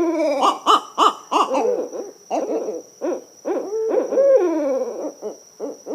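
Barred owl calling in a rapid, excited run of hoots and cackling whoops, with long downward-sliding slurs about a quarter second and about four seconds in.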